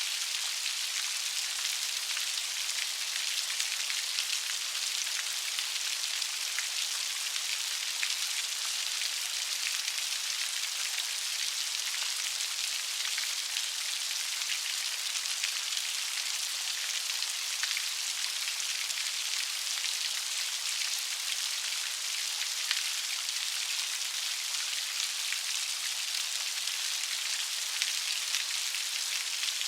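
Light rain falling steadily: an even patter of many small drops on a surface, with fine individual drop ticks.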